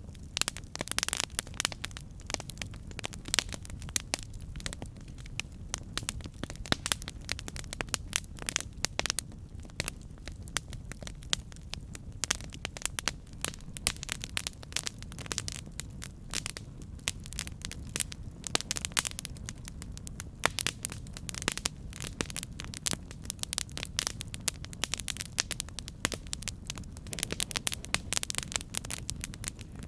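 Campfire burning with a steady low rumble and frequent sharp, irregular crackles and pops from the burning wood.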